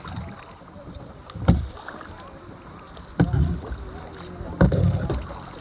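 Kayak paddling: paddle strokes splashing and knocking in the water about every second and a half, over a steady background of water and light wind.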